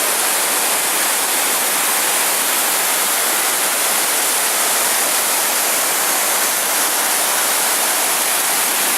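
Waterfall crashing with great force: a loud, steady rush of falling water.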